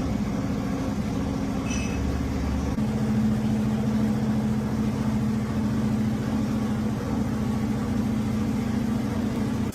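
Heavy truck engine idling steadily, its note shifting slightly about three seconds in.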